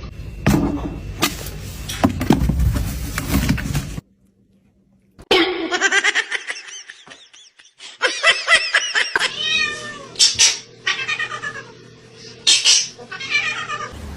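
A cat meowing over and over in drawn-out, bending calls, starting about five seconds in after a brief silence. Before that, a noisy low rumble with clicks.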